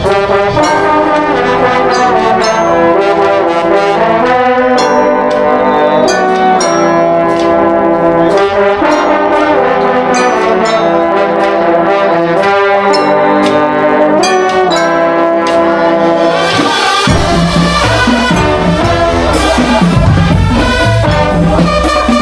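Drum and bugle corps playing: the brass line sounds a melody in held, harmonised notes over light, even percussion ticks. About seventeen seconds in, the drum line comes in loudly with deep, heavy drum beats under the horns.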